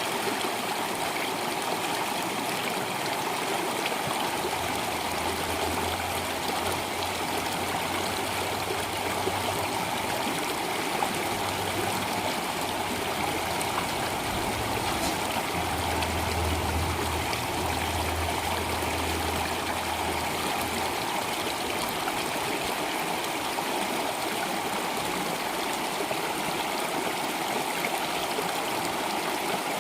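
Water flowing steadily in a stream, a continuous even rushing and trickling.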